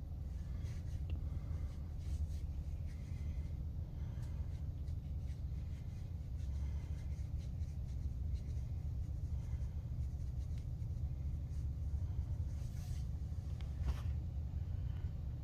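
Steady low rumble with faint scattered clicks and light rubbing sounds over it.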